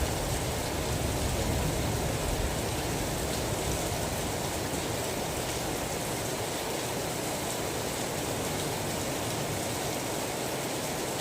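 Steady, even rain, with a low rumble dying away over the first few seconds.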